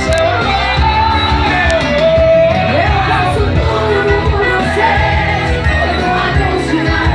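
Amplified live band music with a singer's voice carrying the melody over a steady low beat.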